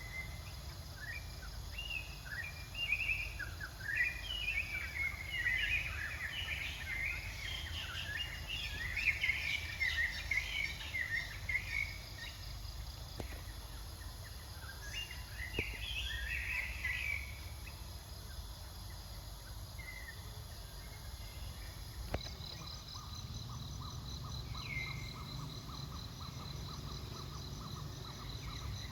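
Outdoor ambience: a busy flurry of short, high chirping calls through the first twelve seconds or so, with a few more later. Then a steady high insect trill sets in about two-thirds of the way through, over a low rumble.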